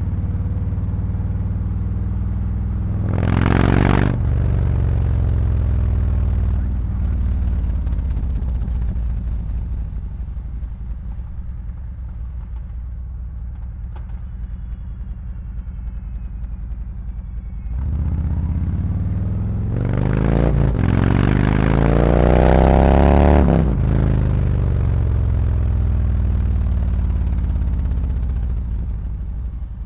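Harley-Davidson Road Glide's V-twin engine running through SuperTrapp 4-inch slip-on mufflers while riding. A short burst of throttle comes about three seconds in, then the engine runs low and quieter. Near the middle it pulls hard, rising in pitch, then falls away as the throttle closes.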